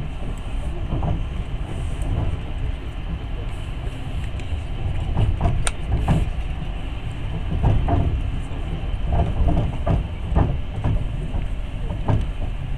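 Passenger train running at speed: a steady rumble from the moving carriage, with clusters of sharp clacks as the wheels pass over rail joints, bunched in the middle and toward the end.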